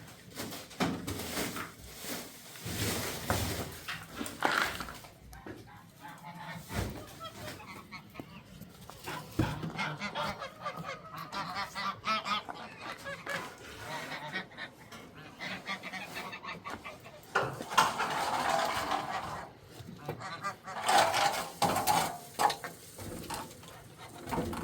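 Farm birds calling over and over in irregular bursts, with the loudest bouts of calling near the end.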